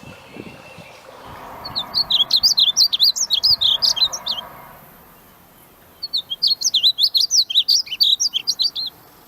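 A small songbird singing two bursts of rapid, high, sliding chirps, about five notes a second, with a pause of over a second between them.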